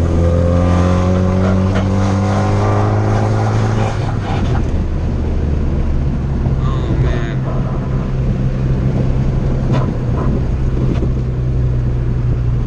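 2013 Fiat 500 Abarth's turbocharged 1.4-litre four-cylinder, tuned to phase 2, driven hard, its pitch slowly sinking for the first few seconds, then falling about four seconds in to a lower steady drone.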